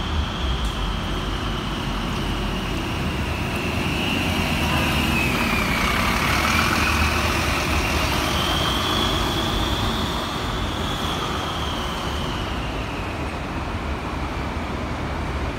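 Wright Gemini 2 double-decker bus running, with a high whine over the low engine and road rumble; the whine sinks in pitch about five to seven seconds in, climbs back, then eases down again. This whine is the weird engine noise the bus is filmed for.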